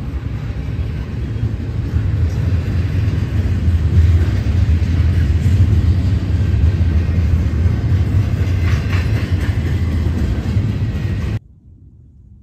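A train passing on the tracks: a loud, steady rumble that cuts off suddenly about eleven seconds in.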